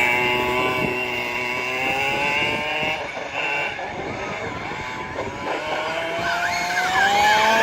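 Small two-stroke petrol engine of a 1/5-scale FG RC monster truck running, its pitch sagging in the middle and then rising as it revs up near the end. A high thin whine sits over it in the first few seconds.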